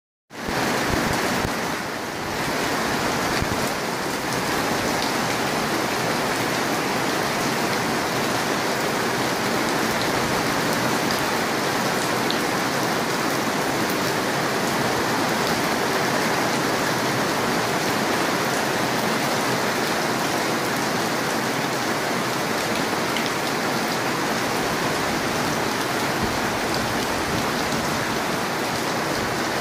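Heavy rain pouring steadily onto paved ground and parked cars, an even rushing hiss without a break.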